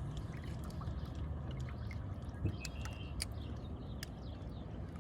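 Small water splashes and trickles as a hooked bluegill is brought in, over a steady low rumble of wind on the microphone, with a few scattered clicks.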